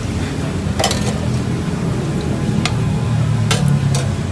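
A few sharp clinks of dishes and cutlery over a steady low rumble of restaurant and traffic noise.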